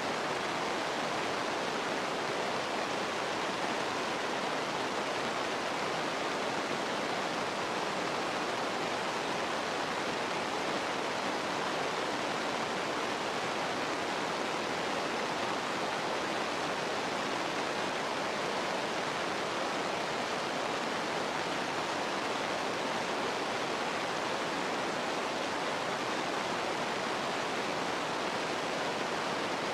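Steady, unbroken rush of running water, like a stream or waterfall.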